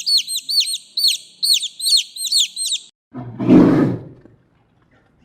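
A bird's quick, high, downward-sliding chirps repeated several times a second. About three seconds in they stop and a big cat's roar sounds once, for about a second. The roar is the loudest sound here.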